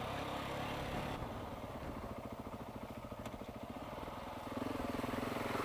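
Motorcycle engine running at low revs. It eases off about a second in and picks up again near the end.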